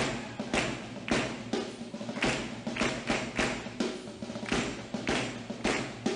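Concert band's drums beating a steady clap-along rhythm, about two to three strokes a second.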